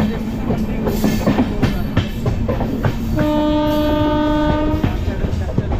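Train wheels clattering with irregular clicks and knocks over a rumble, then a train horn sounding one steady blast of about a second and a half.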